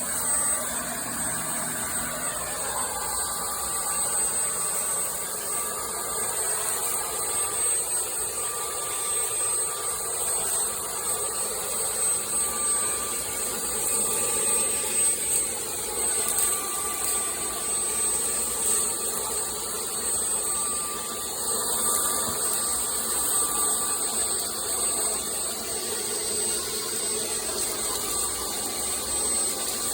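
Vacuum cleaner running steadily, its motor giving a constant high whine over the rush of air.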